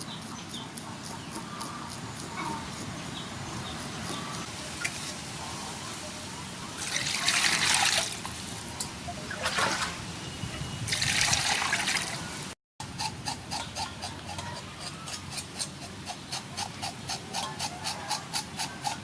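Water running in two short loud bursts, as when fish is rinsed, then a steady run of sharp clicks, about three a second, through the last few seconds.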